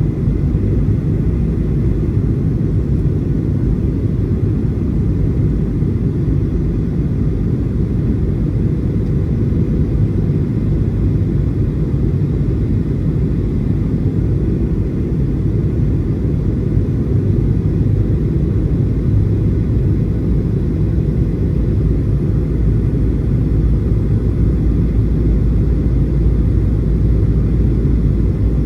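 Steady low rumble of a Boeing 737-800 cabin at a window seat: the noise of its CFM56 jet engines and the air rushing past the fuselage, even throughout with no distinct events.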